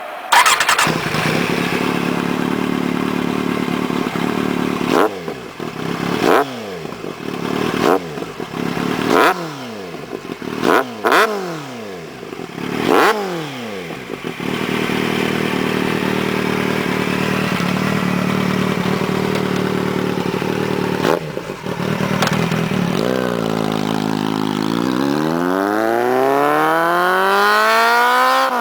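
Kawasaki Z750's inline-four engine through a LeoVince SBK EVO II aftermarket exhaust, idling, then revved in about seven quick throttle blips, each rising and falling back to idle. After a longer idle it pulls away, the pitch climbing steadily as it accelerates near the end.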